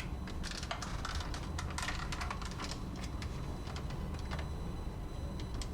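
Small clicks and taps of hands handling an opened cassette walkman and its batteries, busiest in the first couple of seconds and sparser after, over a steady low hum.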